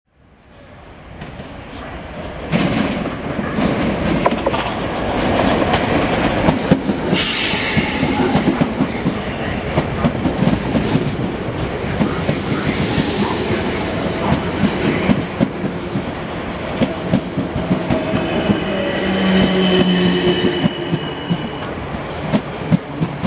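South West Trains suburban electric multiple unit passing along a station platform at speed, its wheels clicking rhythmically over rail joints. The sound fades in at the start, with a brief hiss about seven seconds in and a steady whine from about eighteen to twenty-one seconds.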